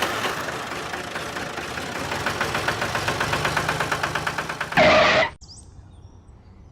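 Small engine of a miniature DIY tractor running with a fast, even chugging, then cutting off abruptly about five seconds in. Just before the cutoff comes a short, loud pitched tone.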